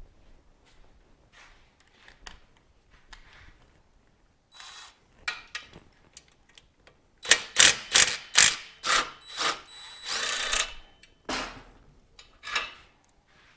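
Hand tools working on a motorcycle: scattered clicks and scrapes, then, about halfway through, a run of loud rasping strokes, roughly three a second, typical of a ratchet being worked back and forth.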